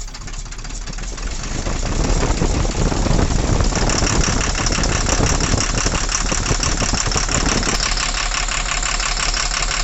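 Tata truck's Cummins BS4 diesel engine idling just after starting, running rough with a rhythmic 'dhad dhad' knocking and heavy vibration. It swells over the first couple of seconds, then settles into an even, pulsing idle. The mechanic suspects a faulty injector.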